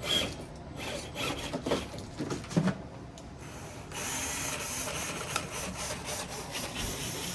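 Radio-controlled rock crawler clambering over rocks, its tyres and chassis scraping and knocking. From about four seconds in, a steadier high whine of the electric motor and gears under throttle joins in.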